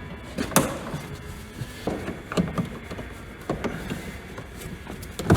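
A string of separate knocks, clicks and clatters from car interior plastic trim and tools being handled as the interior is stripped out, the sharpest about half a second in and just before the end.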